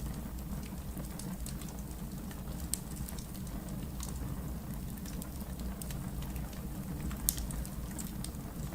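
Wood fire burning in a fireplace: a steady low rumble of flames with scattered sharp crackles and pops, one louder pop about seven seconds in.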